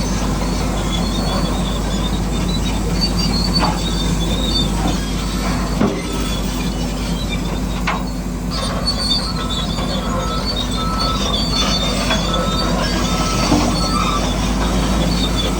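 Small radio-controlled construction machine working: a steady mechanical hum with on-and-off high-pitched squealing and a few sharp clicks.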